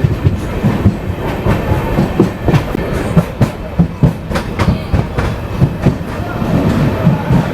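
Express train running at speed, its LHB coach wheels clicking and knocking over the rail joints in a rapid, uneven run over a steady low rumble.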